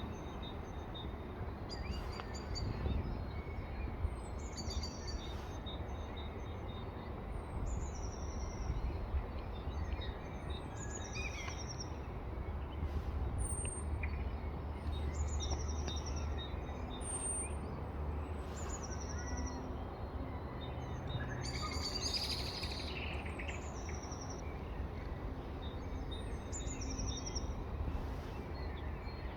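A bird repeating a thin, high call that slides down in pitch, about every two seconds, over a steady low rumble, with a short rustling noise roughly two-thirds of the way through.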